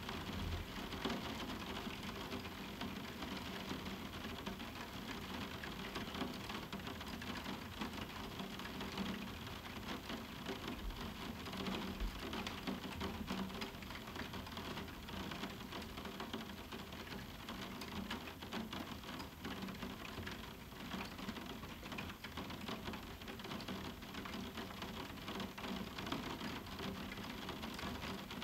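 Moderate summer rain falling on a roof window: a steady, dense patter of countless drops striking the pane.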